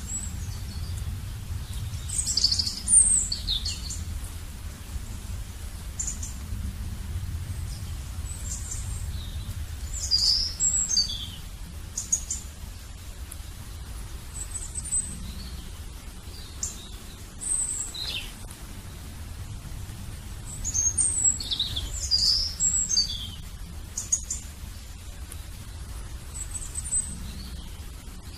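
Small birds chirping: short high calls that slide downward, coming in clusters every few seconds, over a low steady rumble.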